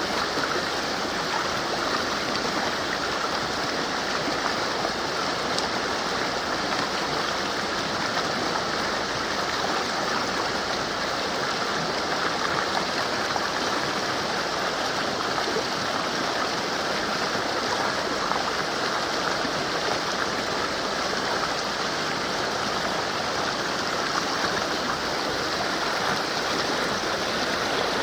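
Mountain river flowing, a steady, even wash of water noise with no breaks.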